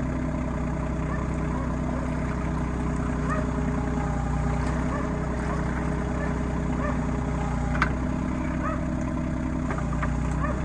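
RK25 compact tractor's diesel engine running steadily, with a single sharp click about eight seconds in.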